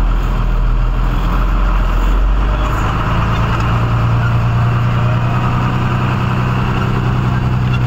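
Tata truck's diesel engine running, heard from the cab. About three seconds in, the engine note steps up and holds steady, as when the engine picks up revs.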